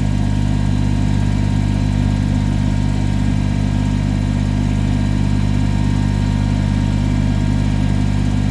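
Tractor engine running steadily at a constant low speed, with an even low hum and no change in revs.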